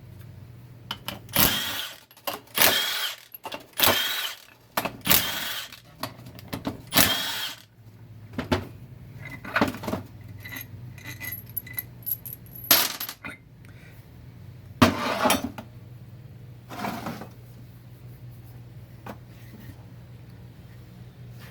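Metal transmission parts clanking and rattling as they are handled on a workbench: a quick run of about five loud, ringing clatters, then a few more scattered ones, over a steady low hum.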